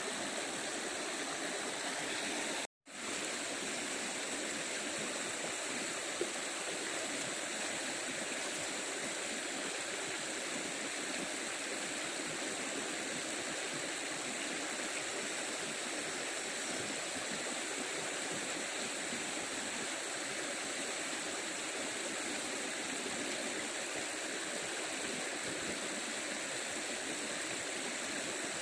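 Steady rushing of a stream's running water. The sound drops out completely for a moment about three seconds in.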